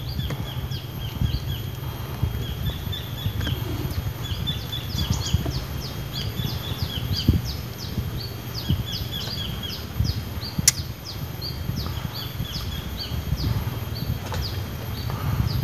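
Small birds chirping in the trees: rapid, repeated short high notes that fall in pitch, with a thin trilling line below them, over a low rumble. One sharp click about ten and a half seconds in.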